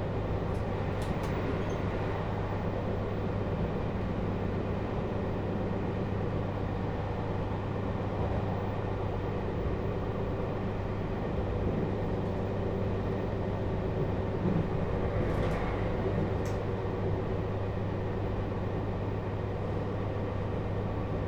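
Steady running noise inside a JR Hokkaido 721 series electric train's Toshiba GTO-inverter motor car, with wheels and drive rumbling at a constant speed. A few short clicks come about a second in and again around fifteen seconds in.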